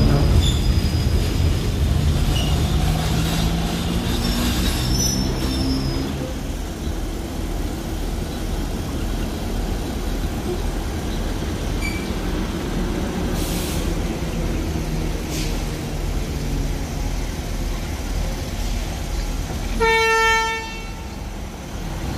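Steady rumble of a passenger train rolling slowly alongside a station platform as it comes to a stop. About twenty seconds in, a single horn blast of about a second sounds.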